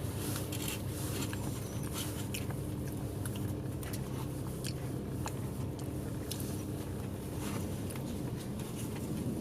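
Inside a moving bus: the diesel engine runs steadily underneath, with frequent light clicks and rattles from the cabin fittings as the bus travels.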